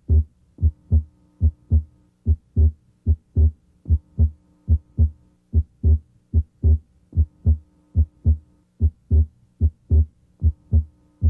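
Heart sounds through a stethoscope's diaphragm at the left second interspace: a regular lub-dub of short, low thumps. The second sound is split abnormally wide, the split coming and going with respiration. A faint steady hum runs underneath.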